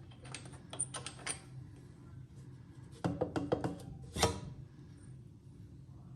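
Light metallic clicks and knocks of hand tools and parts during disassembly of a small oilless air compressor's pump head, with a sharper knock about four seconds in.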